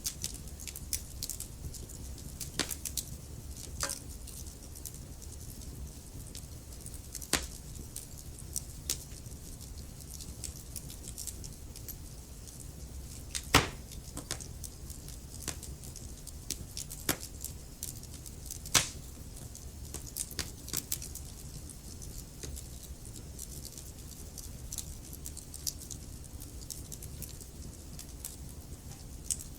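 Wood fire burning in a fireplace: a steady low rumble of flames under frequent irregular crackles, with louder pops from the burning logs about 13 and 19 seconds in.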